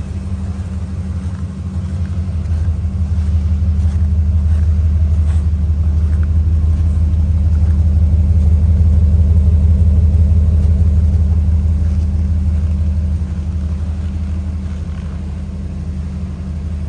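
Engine of a 1999 Holden VS Series 3 utility running with a steady low rumble, growing louder a couple of seconds in and easing back down near the end.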